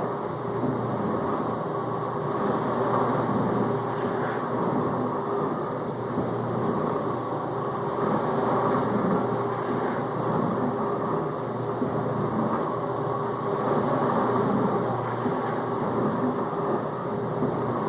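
Whirlpool dishwasher recirculating water during the final rinse: the wash pump motor runs with a steady hum while water sprays continuously inside the tub.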